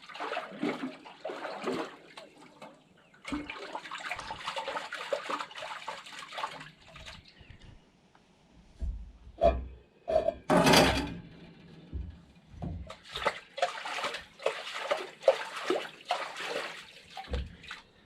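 Water sloshing and splashing in several bursts of a few seconds, as dishes are rinsed in water, with a brief louder clatter about ten seconds in.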